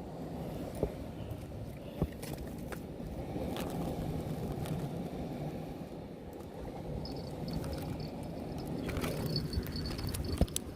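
Steady low rumble of wind on the microphone and the sea, with a few sharp clicks in the first half and a faint high-pitched buzz near the end.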